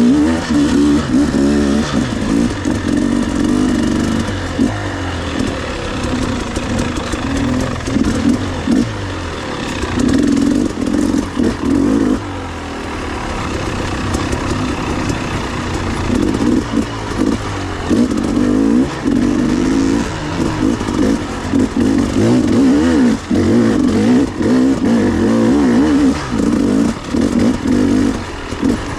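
Off-road trail motorcycle engine revving up and easing off again and again while riding, its pitch rising and falling every second or two.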